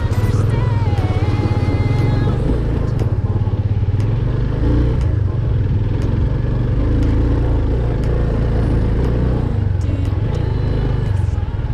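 Motorcycle engine running steadily under way on a rough off-road track, its firing pulses low and continuous, with a faint pop song underneath near the start.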